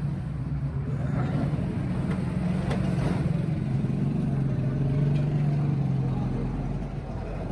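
Truck engine running steadily with a strong low hum.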